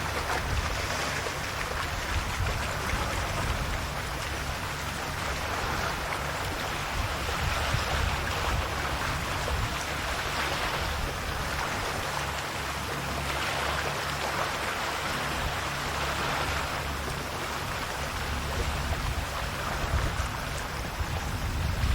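Calm sea waves washing in and draining back, a steady wash that swells and eases every few seconds, over a constant low rumble.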